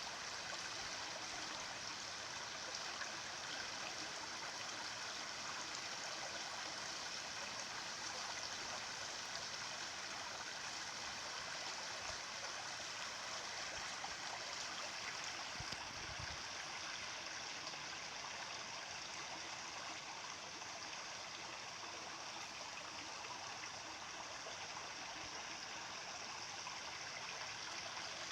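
Stream water flowing with a steady, even rushing and gurgling.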